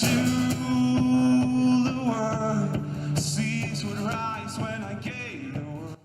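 A man singing a slow melody over a strummed guitar. The music cuts off abruptly near the end.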